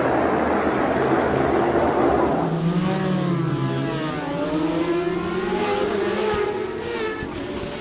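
Several racing motorcycle engines revving and passing, their pitch rising and falling in overlapping glides. For the first two seconds or so there is a dense rushing noise instead.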